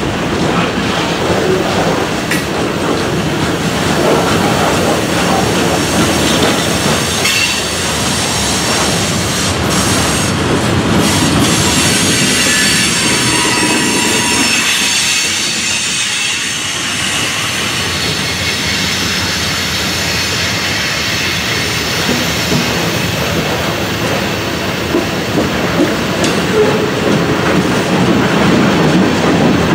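Freight cars of a long mixed freight train rolling past at track speed: a steady rumble of steel wheels on rail with clicking over the rail joints, and a few thin wheel squeals around the middle.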